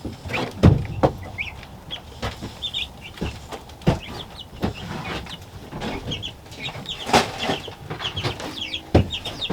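Young chickens peeping over and over in short high chirps that fall in pitch, with several sharp knocks and bumps from the birds being handled; the loudest knocks come just under a second in and about seven seconds in.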